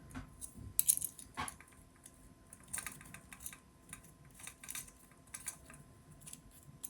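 Small metal bolts and nuts clinking and rattling as they are handled, a scattered series of light metallic clicks and jingles.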